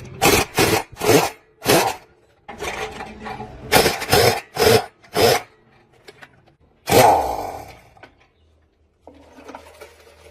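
Short rasping strokes of a hand tool working a workpiece: three quick strokes at the start, four more around four to five seconds in, then one longer stroke that leaves a brief ring.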